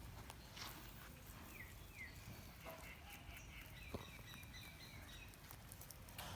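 Faint munching of rabbits eating, heard as scattered soft crunches and clicks, with a bird chirping a quick series of high notes in the background about two to five seconds in.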